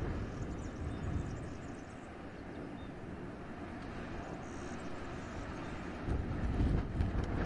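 Wind gusting through a winter forest, with a deep rumble: it eases a couple of seconds in and gusts up again about six seconds in.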